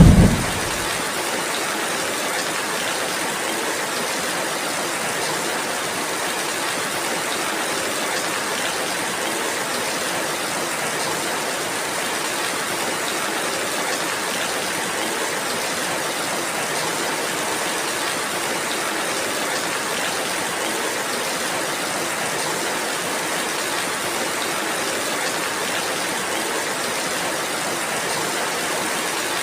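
Steady, even rainfall hiss without thunder; a low rumble dies away in the first second.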